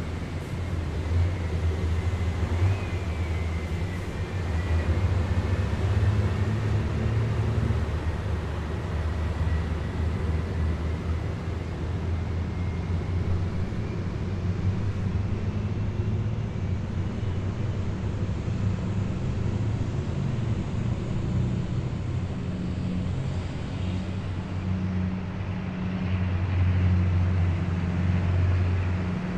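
Heavy military vehicles driving past in a column, a steady low engine drone that swells a little near the end, with a faint high whine drifting in pitch above it.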